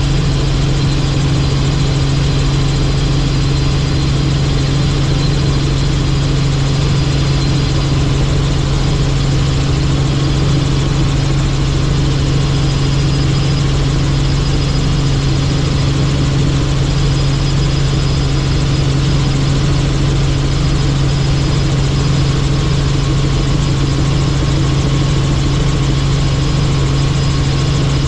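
Helicopter in flight: a steady, loud engine and rotor drone with a strong low hum and a faint high whine above it.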